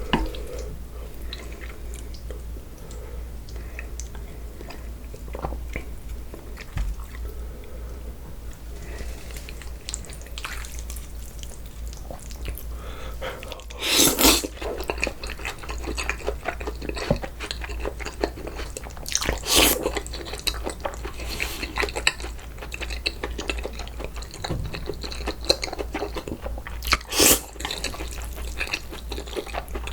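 Close-up eating sounds of cold noodles: wet chewing and crunching throughout, with three louder, short slurps of noodles spread through the stretch.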